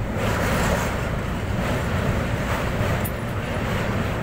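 Express train running steadily across a steel truss bridge, a continuous rumble of wheels on the rails with rushing air, heard from aboard the train.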